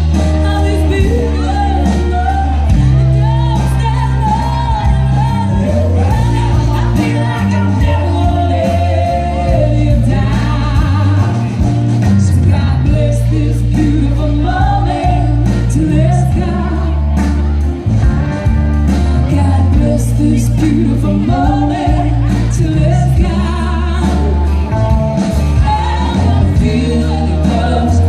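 Live band music with singing and a steady bass, the vocal lines running on between lyrics.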